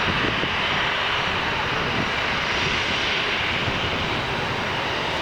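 Jet engines of a Boeing 737-300 airliner (CFM56-3 turbofans) running at power, giving a loud, steady, even rushing noise.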